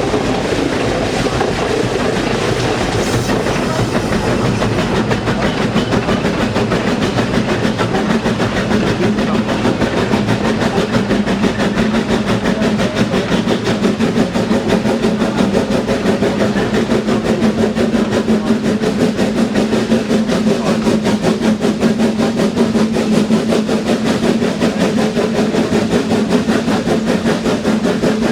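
A narrow-gauge Swiss mountain railway train running steadily, heard close by. It gives a continuous hum with a fast, even rattle over it.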